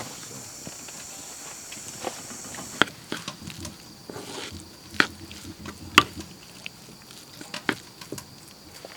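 Wood fire crackling, with irregular sharp pops and snaps, the loudest about five and six seconds in. A steady high hiss stops abruptly about three seconds in.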